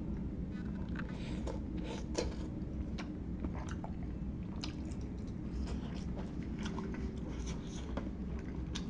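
A person chewing and eating close to the microphone: wet mouth smacks and short irregular clicks, a few to several a second, over a steady low hum.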